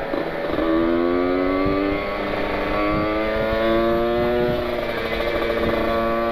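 Kawasaki Ninja 150 RR's two-stroke single-cylinder engine accelerating under load. The pitch climbs through the revs and dips briefly at a couple of gear changes, then climbs again, with wind rush underneath.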